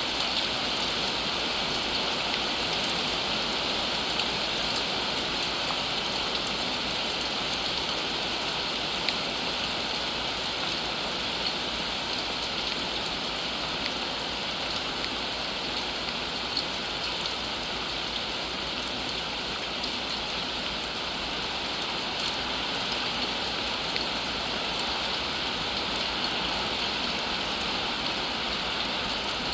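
Steady rain falling and pattering on surfaces, an even hiss with scattered small drop clicks.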